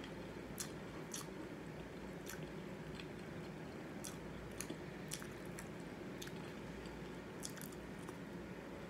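Someone chewing a mouthful of Cheerios Oat Crunch cereal with the mouth closed: faint, irregular crunches and clicks, one or two a second.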